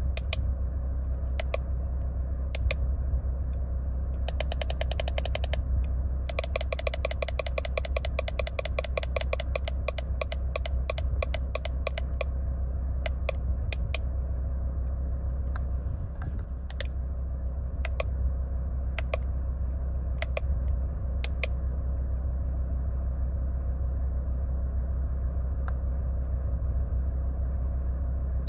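Steady low hum from a car, with scattered sharp clicks throughout. There are two runs of rapid clicking, one of about a second and one of nearly six seconds, in the first half.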